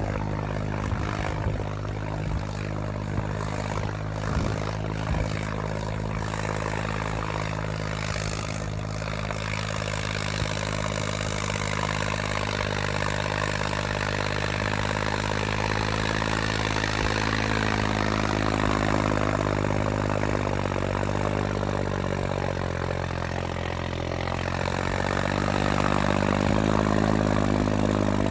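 John Deere 5310 tractor's three-cylinder diesel engine running steadily, with scattered clattering knocks in the first several seconds. Past the middle the engine note dips and comes back up, and it grows louder near the end.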